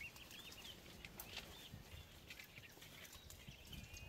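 Faint warbling bird calls, a few short phrases, over light rustling and small cracks of brush as a person pushes through dry branches and leaves.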